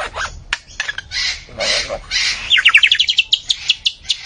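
A bird calling: a few harsh, scratchy calls, then, about halfway through, a rapid run of short falling chirps that slows into separate notes near the end.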